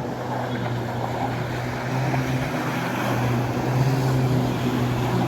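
Motorboat engines running steadily as a boat passes through the inlet: a low drone that slowly grows louder, over the rush of water.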